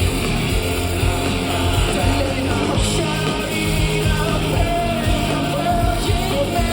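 Rock band playing with a male singer singing over guitars, bass and drums.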